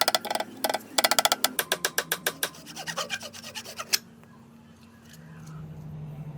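Fast back-and-forth rasping strokes on a wooden axe handle, about six to eight strokes a second, stopping about four seconds in and leaving a faint low hum.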